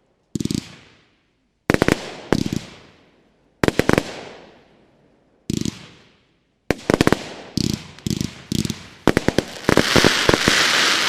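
A 25 mm, 144-shot firework battery (cake) firing in volleys: each shot is a dull launch thump followed by sharp bangs and a fading crackle. The shots come in irregular groups, closer together after about six seconds, and near the end they run into a dense, continuous crackle of many breaks at once.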